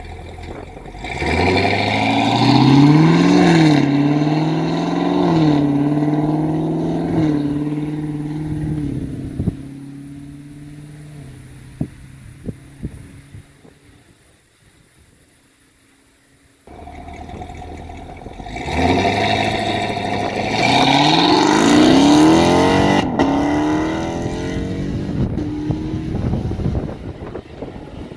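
Cat-less 6.2-litre LT1 V8 of a 2019 Camaro SS, exhausting through the factory active exhaust, accelerating hard twice. Each time the revs climb and drop back at each upshift of the 10-speed automatic before settling to a cruise. The first run fades into a quiet spell broken by a few brief cracks, and the second pull starts after it.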